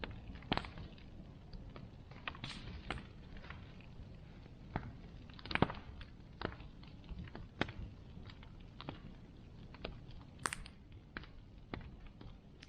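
Bonfire burning: irregular crackles and sharp pops of burning wood over a low steady rumble of the flames, one louder pop about ten seconds in.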